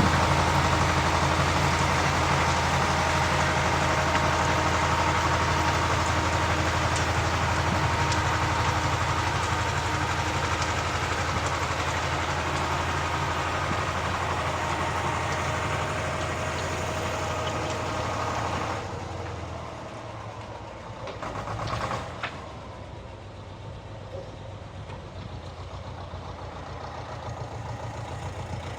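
Walk-behind rotary tiller engine working steadily under load, then dropping to a quieter idle about two-thirds of the way through, with a brief rev just after before it settles at idle.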